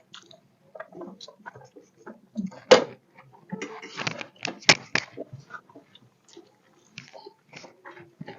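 People eating: quiet chewing with scattered short clicks and knocks of food and plates, the sharpest a little under 3 seconds in and two more around 5 seconds in.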